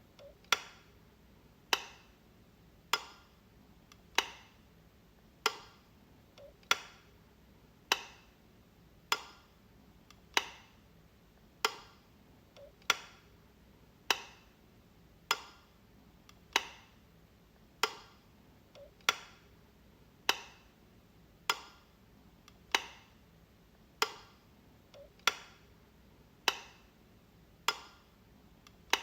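Light switch being flipped again and again: a sharp click about every 1.2 seconds, with a fainter extra click now and then.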